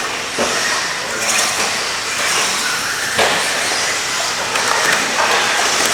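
Several radio-controlled stadium trucks racing, their motors and tyres making a dense, steady hiss with short rising and falling whines, and a sharp knock about three seconds in.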